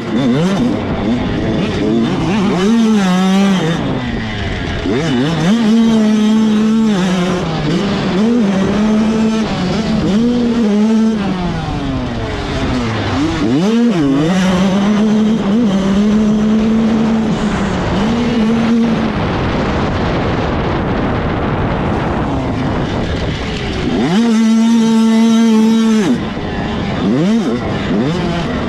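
85cc two-stroke motocross bikes racing, engines revving up and falling off again and again as riders work the throttle, with stretches held at steady revs. One bike runs loud and steady for about two seconds near the end.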